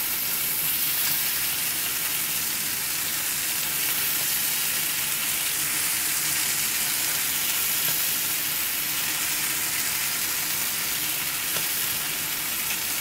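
Chicken pieces sizzling steadily in a hot, oiled grill pan as a thick peri peri marinade is spooned over them.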